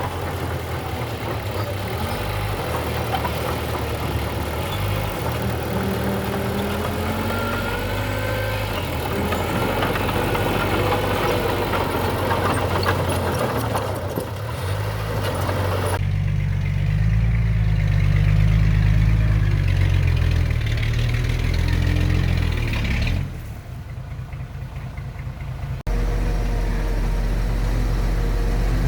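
Heavy construction machinery, a dump truck and a bulldozer, running on diesel engines. The sound changes abruptly a few times and drops sharply for a few seconds near the end.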